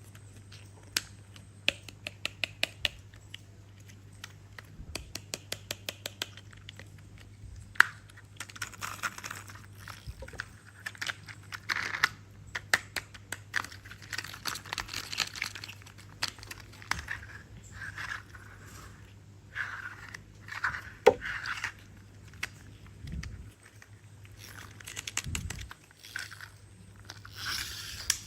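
Hard plastic toy parts being handled: quick runs of sharp clicks in the first few seconds, then irregular rustling, scraping and light knocks, over a steady low hum.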